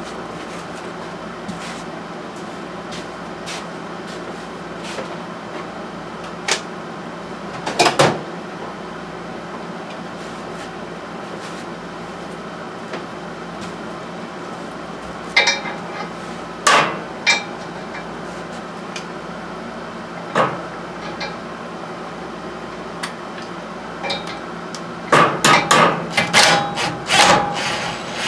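Hand tools clinking and knocking against metal during mechanical work: scattered single knocks, then a quick run of clinks near the end, over a steady background hum.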